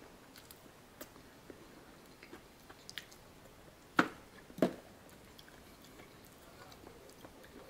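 Close-miked chewing with small wet mouth clicks. About four seconds in come two sharp knocks, half a second apart, as a paper cup of mashed potatoes and gravy is set down on the table.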